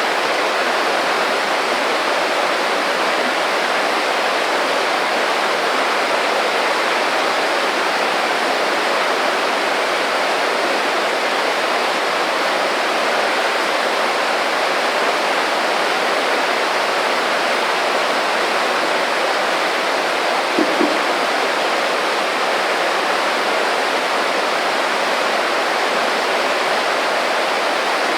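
Small creek flowing, a steady rush of running water. About two-thirds of the way through there is a brief low double thump.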